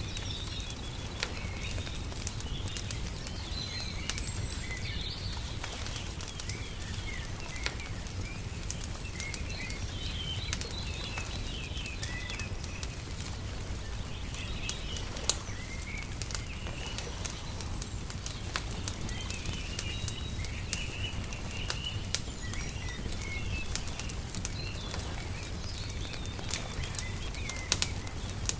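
Wood fire crackling with scattered sharp pops, one louder pop about halfway through, mixed with small birds chirping throughout over a steady low rumble.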